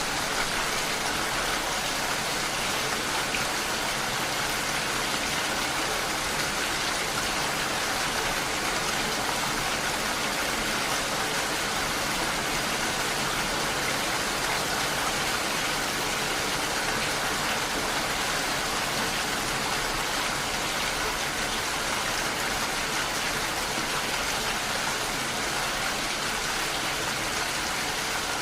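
Steady rain, an even hiss of falling drops that stays level without a break.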